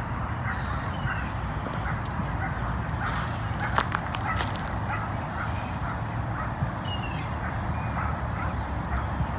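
Ducks quacking in short, scattered calls over a steady low rumble, with a few faint high bird chirps. A few sharp clicks come about three to four seconds in.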